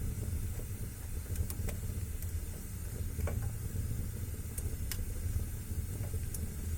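Wood fire burning in a fireplace: a steady low rumble from the flames with scattered sharp crackles and pops, about seven in all, irregularly spaced.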